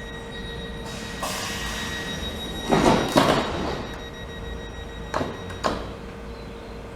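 Class 465 Networker electric train at the platform, with a steady electrical whine under it; two loud bursts come about three seconds in and two shorter ones about five seconds in, heard as sliding doors working.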